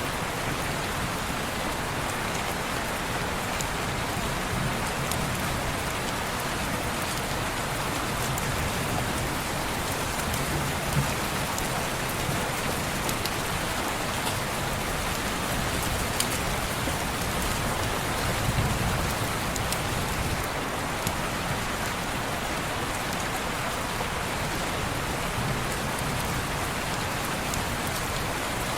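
Steady heavy rain falling on a window, an even hiss with a few faint sharp ticks scattered through it.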